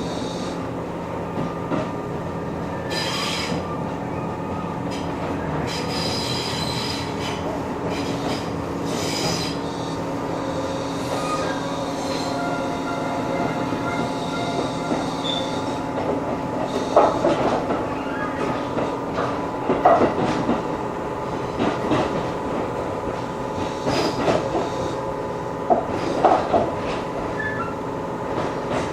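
An electric train running, heard from on board: a steady drone with held tones, short bursts of high wheel squeal in the first ten seconds, and, from a little past halfway, a run of sharp clacks as the wheels pass over rail joints.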